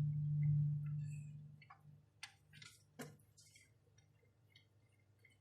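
A low hum that fades away over the first two seconds, then about five light, sharp metallic clicks as a small steel hydraulic fitting is handled and started by hand into its freshly cut threaded port.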